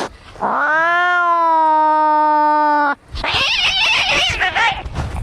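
Angry cats fighting: a long, drawn-out yowl starts about half a second in and holds for about two and a half seconds, sagging slightly in pitch. It cuts off and is followed by a harsh, noisy screech.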